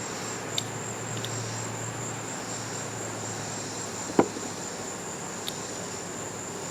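Crickets chirring in a steady, continuous high-pitched trill. Under it are a few small clicks and one sharper knock about four seconds in.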